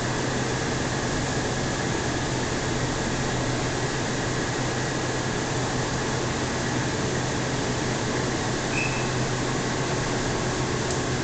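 Steady hum and hiss inside a local train carriage, with a brief faint high chirp about nine seconds in.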